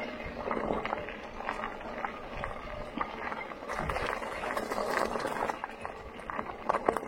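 Rattling and crunching of a bike being ridden over a rough, muddy trail, with many small knocks and no steady engine note.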